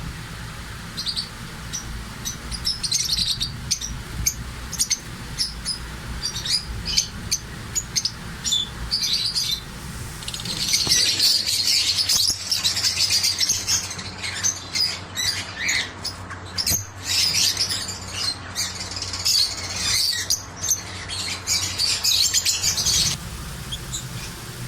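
Many small pet birds chirping: scattered high-pitched calls for about the first ten seconds, then dense, continuous chattering that cuts off suddenly shortly before the end.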